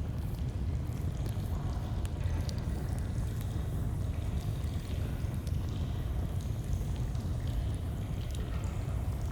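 Flowing stream running steadily with a deep rushing sound, under scattered small crackles and pops of a campfire.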